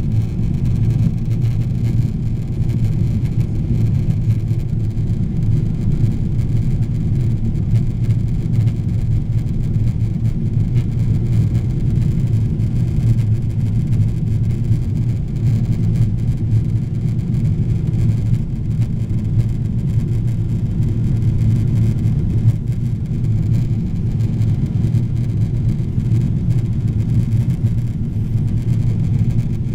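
Steady low rumble of a Boeing 777-300ER airliner in descent, heard inside the passenger cabin: engine and airflow noise holding constant.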